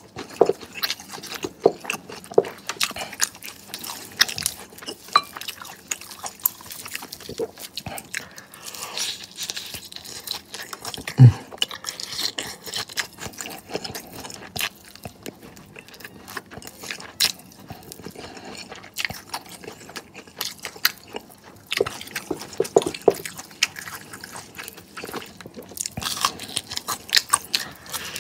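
Close-miked biting, chewing and crunching of crispy fried chicken wings, irregular crackles of the breaded skin. A single loud, low thump about eleven seconds in.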